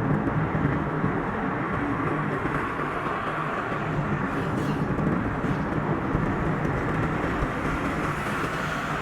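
Steady road and engine noise of a car driving along a highway. The recording is played at double speed, which raises the pitch.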